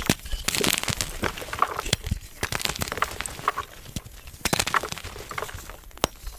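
Soft gym chalk being crushed, crumbling in irregular crunches with sharp little cracks.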